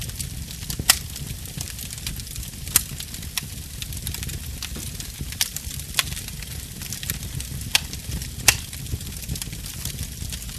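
Wood fire burning: a steady low rumble and hiss with sharp crackling pops every second or so, the loudest about a second in and near the end.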